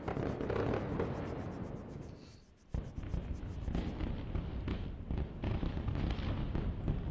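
Airstrike explosions in a city: a heavy rumbling blast that fades away, then a sudden new blast a little under three seconds in, followed by continued rumbling with sharp cracks and pops.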